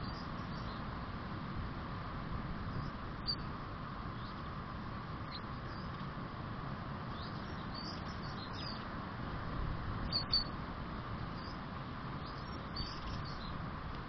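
Small garden birds calling in short, high chirps, scattered irregularly with a cluster around the middle and the strongest about ten seconds in, over a steady background hiss and low rumble.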